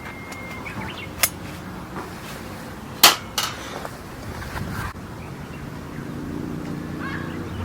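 A few sharp knocks and clinks at irregular intervals, the loudest about three seconds in.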